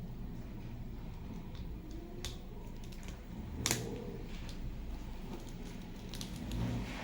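A few scattered plastic clicks and taps from mechanical keyboard keycaps being handled, the loudest about halfway through, over a steady low hum.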